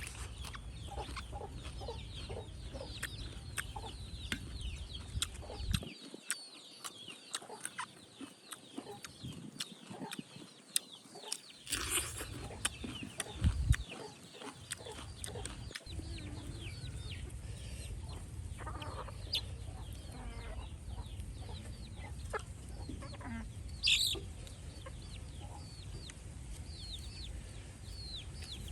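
Chickens clucking, with many short high peeps falling in pitch throughout. Scattered sharp clicks and knocks come in between, and there is a brief louder squawk near the end.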